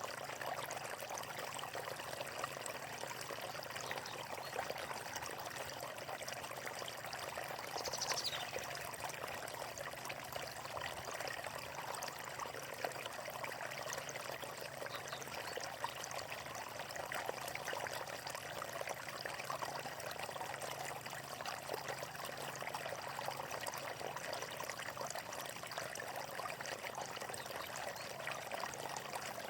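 Water of a natural stream flowing and trickling steadily. About eight seconds in there is a short, high, falling note.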